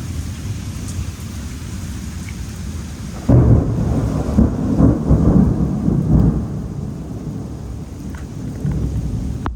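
Thunder from a thunderstorm: a loud clap about three seconds in, rolling and rumbling for about three seconds before fading back, over a steady background of rain and distant rumble.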